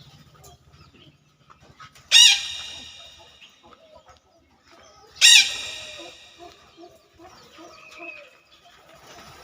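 Rooster crowing twice, about three seconds apart, with soft clucking in between.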